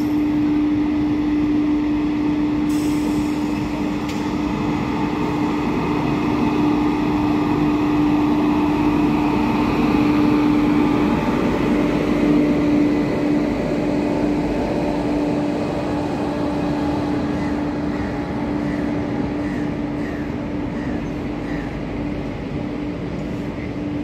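Electric train running through the station: a steady electric hum over the rumble of wheels on rail, easing slowly in the second half.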